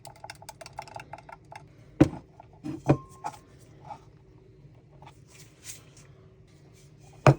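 Handling of 3D-printed PETG plastic parts: a run of quick, light clicks for about the first second and a half, then sharp knocks about two and three seconds in, and one loud knock near the end.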